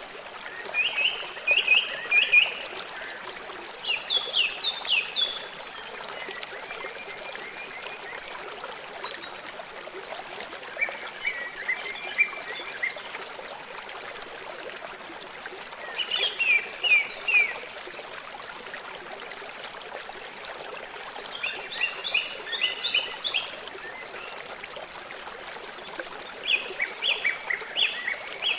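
A songbird singing short phrases of four to six quick falling notes, repeated every five or six seconds, over the steady rush of a running stream.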